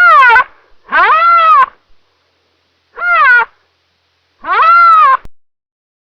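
An animal calling repeatedly: four drawn-out wailing calls about a second apart, each rising and then falling in pitch.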